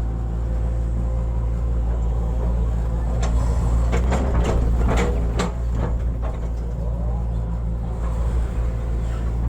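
Hitachi excavator's diesel engine running steadily under load, with a quick run of knocks and scrapes about three to six seconds in as the machine digs.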